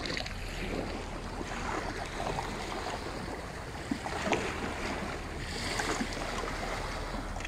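Steady wind noise buffeting the microphone, with a single faint knock about four seconds in.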